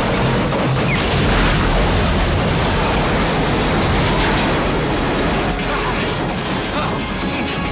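Film sound mix of a subway train running at speed: a loud, dense, unbroken rumble heavy in the bass.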